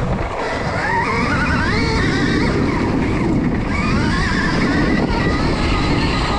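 Stark Varg electric dirt bike's motor whining as the rider works the throttle, the pitch climbing twice and falling back, over a steady low rush of wind and terrain noise.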